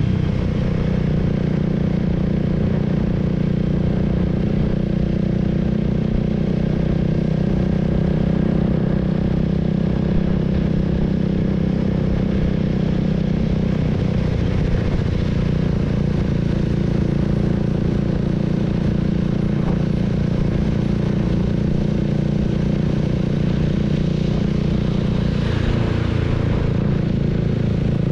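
Honda Rebel 300's single-cylinder engine running at a steady speed, heard from on the bike, its note holding nearly level in pitch.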